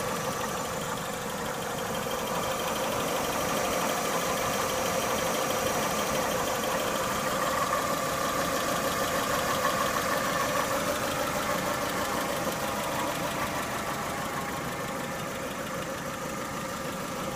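Chevrolet Lacetti's F16D3 four-cylinder petrol engine idling steadily when warmed up, with no squeak or other stray noise.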